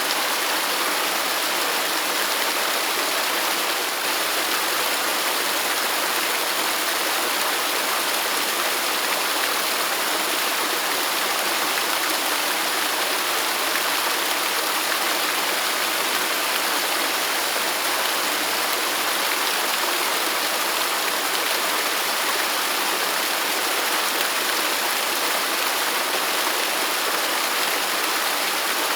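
Waterfall: a steady, unbroken rush of falling water, a bright hiss with little deep rumble.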